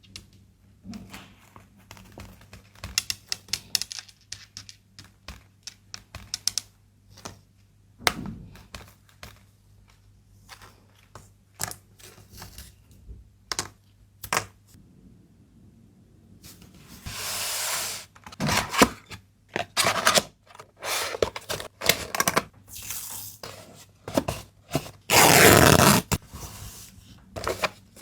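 Hands packing an order: a run of small taps, clicks and scrapes as items and packaging are handled. Two longer, louder rasping stretches of packing material come about two-thirds of the way through and near the end.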